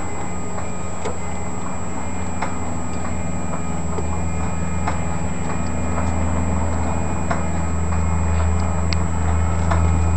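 Aircraft engine being cranked on a start attempt without catching: a steady low drone with scattered light ticks, growing somewhat louder in the second half.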